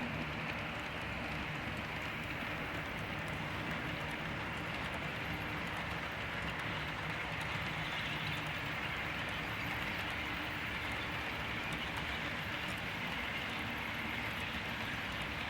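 HO scale model freight train rolling along the track: a steady rush of small metal wheels on rail with a low hum underneath and scattered faint clicks. The locomotives' sound units are muted, so this is the mechanical running noise itself.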